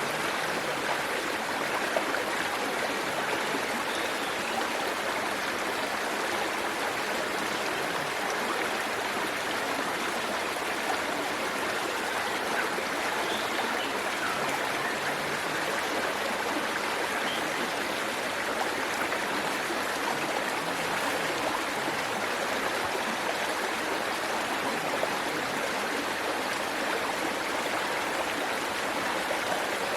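Steady rush of a waterfall and its flowing stream, splashing and burbling over rocks with no let-up.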